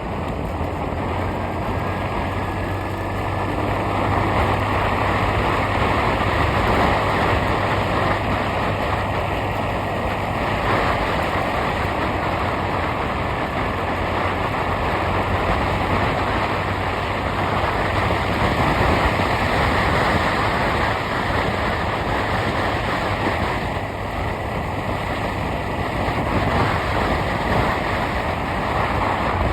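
Steady noise of a moving road vehicle, engine and road and wind noise together, swelling and easing slightly, with a low hum that fades about ten seconds in.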